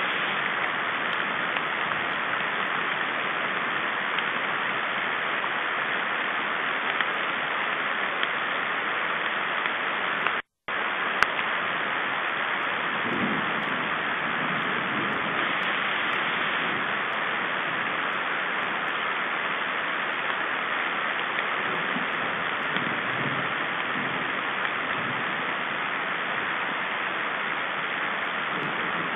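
Steady rain falling on the forest and nest, a continuous even hiss; the sound cuts out completely for a moment about ten seconds in, followed by a single click.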